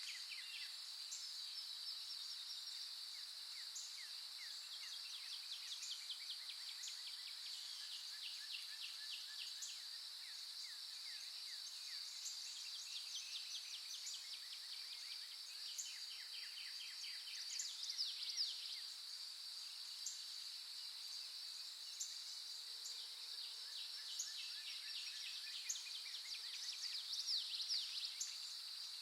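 Songbirds singing in rapid trills of short repeated notes, with a couple of louder falling calls about two-thirds of the way through and near the end, over a steady high-pitched insect drone.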